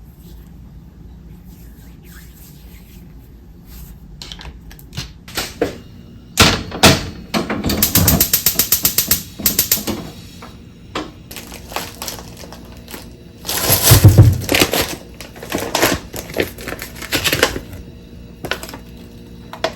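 Quick clicking and tapping in bursts, at times about ten taps a second, with one heavier, louder knock near the middle.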